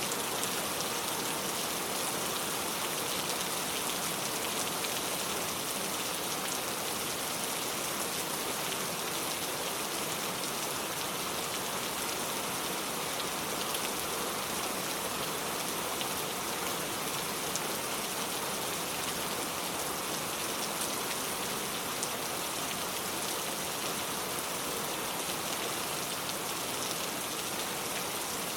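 Steady rainfall, with a continuous hiss of rain and scattered individual drops ticking on surfaces.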